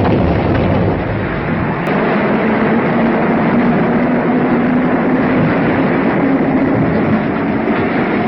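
London Underground train running, a loud steady rumble with a faint steady hum through the middle of it.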